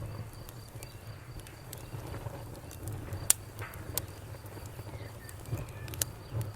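Campfire crackling: scattered sharp pops and snaps over a steady low rumble of burning wood, with the loudest pop a little over three seconds in.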